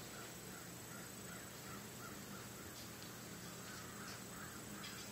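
Faint, steadily repeated bird calls, about two to three short calls a second, over a low steady background hum.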